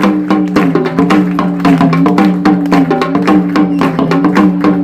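Sambal drums struck with sticks in a fast, even rhythm, about five or six strokes a second, over a steady sustained tone.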